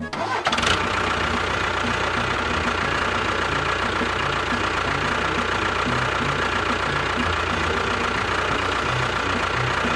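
Small electric motor of a DIY model machine running steadily with a whine, spinning up about half a second in and winding down at the end.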